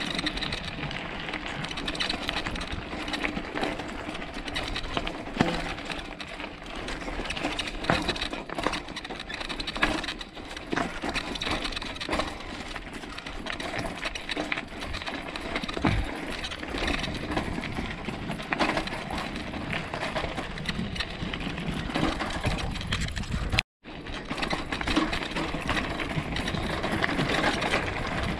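Bicycle rolling over a rough dirt track, its frame and chain rattling with many small knocks over a steady rushing noise. The sound cuts out for a moment about 24 seconds in.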